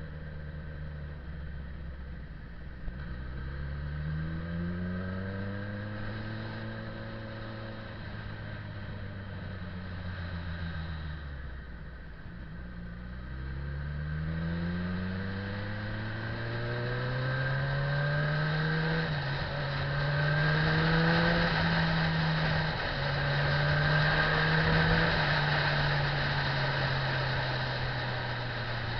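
Motorcycle engine revving up and easing off twice, then accelerating again with short dips in pitch at each gear change, about every three seconds, while wind and road noise grow louder.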